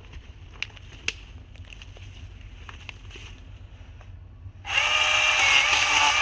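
Milwaukee electric chainsaw: a couple of sharp clicks, then its motor starts suddenly about three-quarters of the way in and runs steadily at full speed with a high whine.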